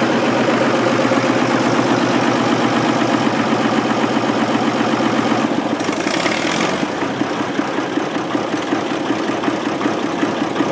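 Vintage diesel tractor engine running close by with an even pulsing beat, easing off a little in the second half, with a brief hiss about six seconds in.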